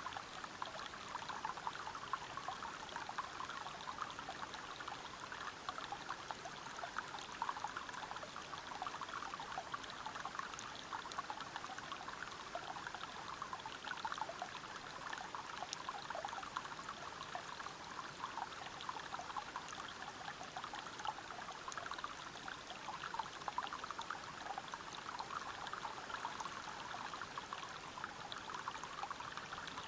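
River water flowing and falling over rocks at a small forest waterfall: a steady, unbroken rush made of many small splashes.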